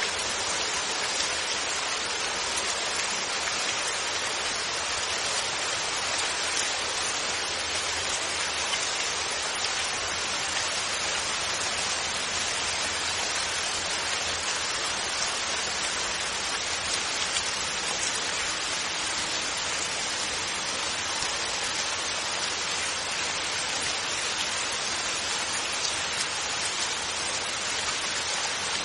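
Steady rain falling, with no thunder: a dense, even hiss of drops.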